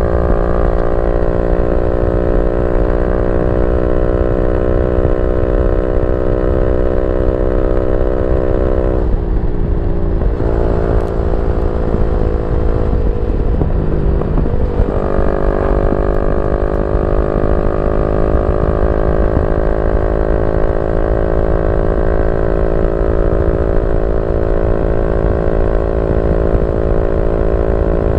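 Yamaha Y15ZR's 150cc single-cylinder four-stroke engine running through a YYPANG SD3 aftermarket exhaust at steady revs. About nine seconds in the note breaks up and drops off for a few seconds as the throttle is eased. Around fifteen seconds in it picks up again and holds, slowly rising in pitch.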